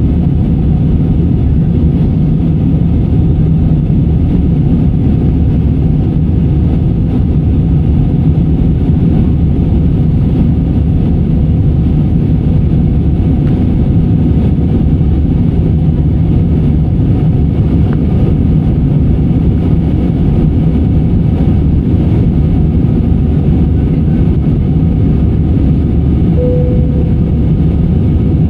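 Steady, loud low rumble and hum inside an airliner's cabin, from the aircraft's engines and air systems running. A brief single tone sounds near the end.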